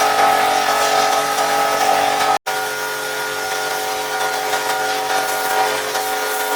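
Pressure washer running steadily, a motor hum under the hiss of the spray. The sound cuts out for an instant about two and a half seconds in, then carries on.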